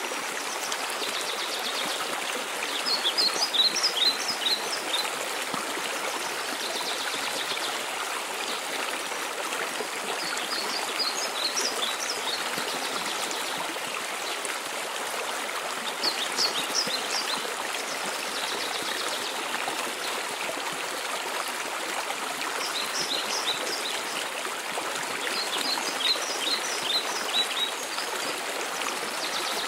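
Steady rush of a waterfall. A songbird sings a short, high phrase of quick falling notes about five times.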